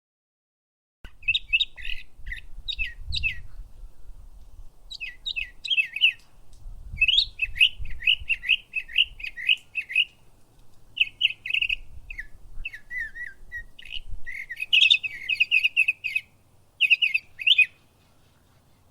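Small birds chirping in quick runs of short high notes, starting about a second in and going on in bouts, with a faint low rumble underneath.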